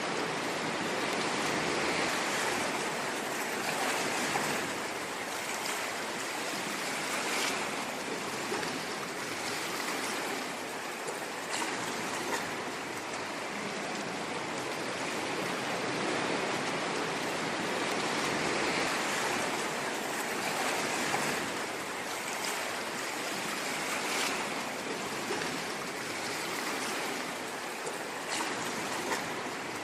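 Ocean waves washing ashore: a continuous hiss of surf that swells and eases every few seconds.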